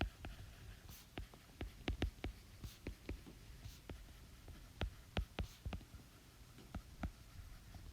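Irregular light clicks and taps, a few a second, over a faint low hum.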